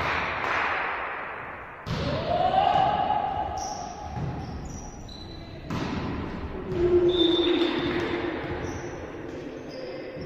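A volleyball struck and bouncing on an indoor court, with two sharp hits about two and six seconds in, each followed by ringing and short high squeaks.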